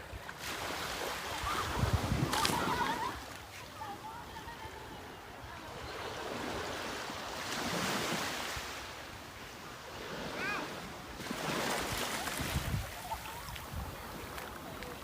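Sea waves washing in and breaking, surging every few seconds, with wind buffeting the microphone.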